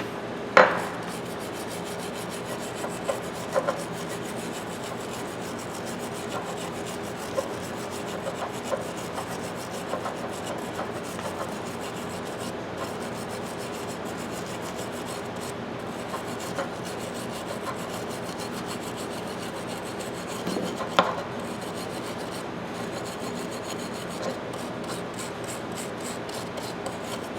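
Brass wire brush scrubbing back and forth over the rusty steel of a pipe wrench, a steady scratchy rasping, with a couple of sharp knocks of metal, one just after the start and another about two-thirds of the way through.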